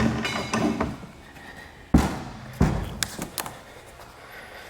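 Heavy knocks and clunks of a Humvee hood being handled and set down as it is lifted off the truck. The first knock carries a brief metallic ring, two more heavy knocks come about two seconds in, and lighter clicks follow.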